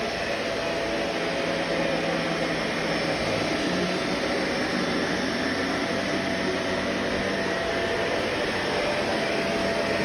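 Vacuum cleaner running steadily, a constant motor and airflow noise with a faint steady hum.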